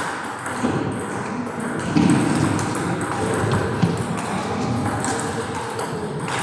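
Table tennis balls clicking off bats and tables, many quick, irregular clicks from several rallies at once over steady background noise.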